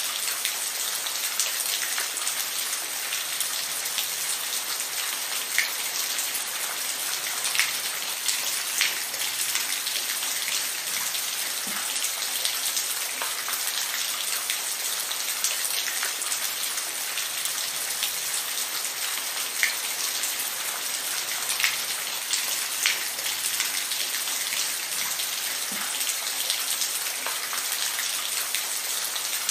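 Steady rain falling, an even hiss with scattered close drops ticking on a surface.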